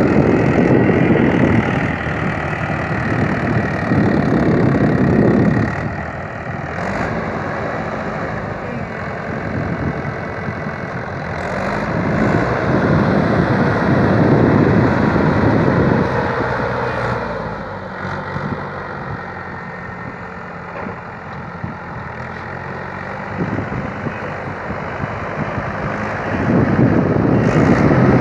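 Tractor engine running, growing louder in several spells and settling back to a steady idle in between.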